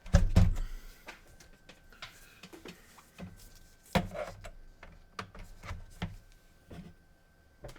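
Irregular clicks and knocks of hard plastic parts being handled on a PS4 console, with louder knocks near the start and about four seconds in.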